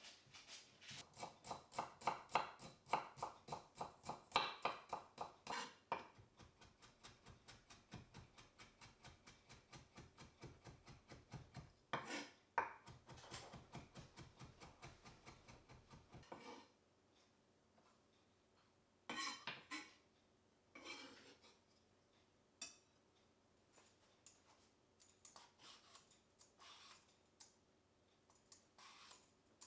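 Knife chopping vegetables on a cutting board in a quick, steady rhythm. The chopping stops a little past halfway, leaving a few scattered taps and light clatters.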